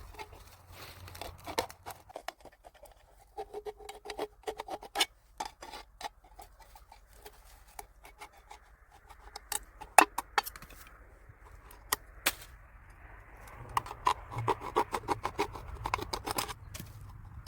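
Irregular sharp clicks, taps and scrapes of small hard objects being handled, with a louder cluster about halfway through and a quick run of taps near the end.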